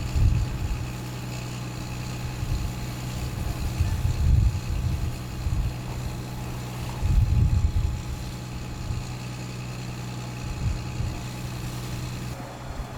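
Fire truck engine running at a steady pitch, with gusts of wind buffeting the microphone in low rumbling surges several times.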